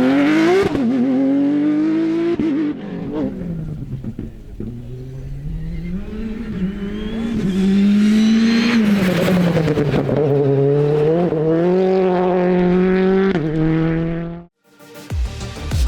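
Rally car engine running hard on a stage, its note climbing and dropping through the gears, with tyre noise. It cuts off abruptly about three-quarters of a second before the end, when music with a beat comes in.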